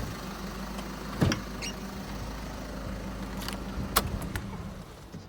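Volkswagen Eos electric window motors running with a steady hum that stops near the end, with a couple of sharp clicks along the way, about a second and four seconds in.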